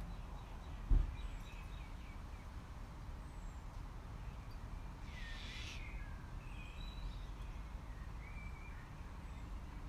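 Outdoor ambience: birds chirping and calling now and then over a steady low rumble, with a single thump about a second in.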